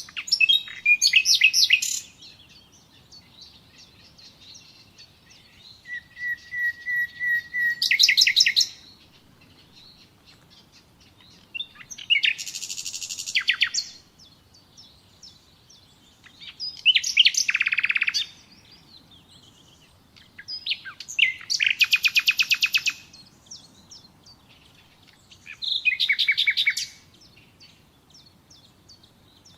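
Common nightingale singing: six short phrases of about two seconds each with pauses between, built of rapid repeated notes and trills. One phrase, about six seconds in, opens with a run of whistled notes that grow louder.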